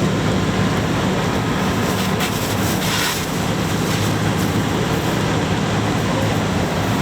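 A fire apparatus engine running steadily with a low, even hum, with a short hiss about three seconds in.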